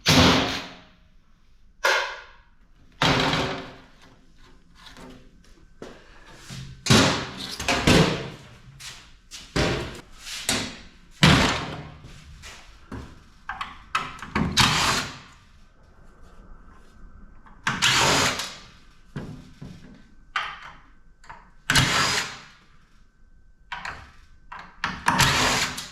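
Irregular metallic knocks, clanks and rattles, one every second or so, as parts are worked loose and pulled out of a PTAC air-conditioning unit being stripped for scrap.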